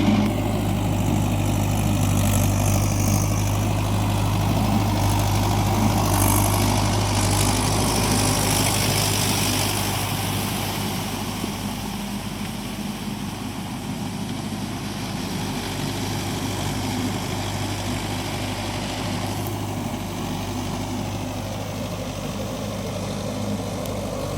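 Mahindra 575 tractor's diesel engine running steadily, a little quieter from about ten seconds in.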